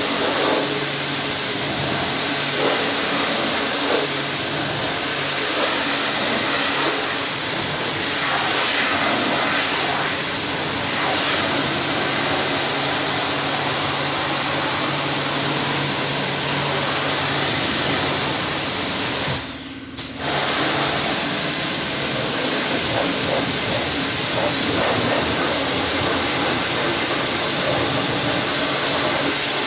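High-pressure washer spraying water onto a car with its pump running: a steady hiss of spray over a low hum. It drops out for about a second around two-thirds of the way through, then carries on.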